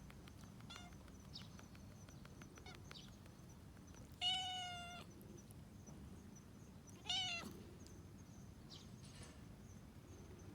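A cat meowing twice: a long meow about four seconds in and a shorter one about three seconds later.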